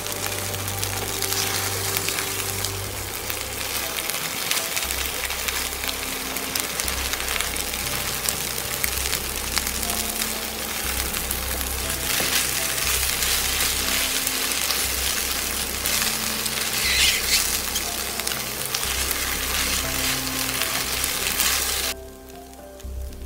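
Cheese spätzle with onions frying in butter in a pan, sizzling steadily, with scrapes of a spatula as the noodles are turned. The sizzle drops away abruptly near the end.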